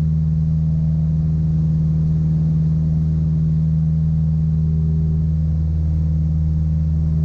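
Steady drone of the Piper Apache's twin piston engines and propellers during a climb, a constant low hum made of a few steady tones with no change in pitch.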